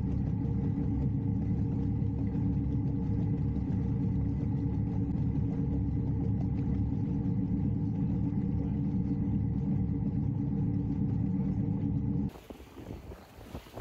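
The sailboat's inboard engine runs steadily under way with a low, even hum. About twelve seconds in it cuts off suddenly and gives way to wind noise and water.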